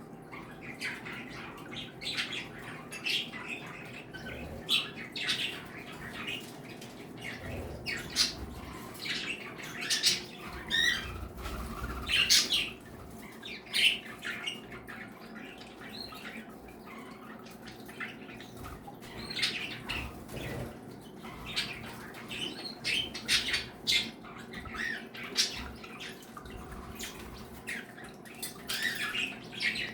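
A mixed indoor flock of pet birds, including cockatiels, budgies and Bourke's parakeets, chirping, whistling and squawking over one another in a constant stream of short overlapping calls.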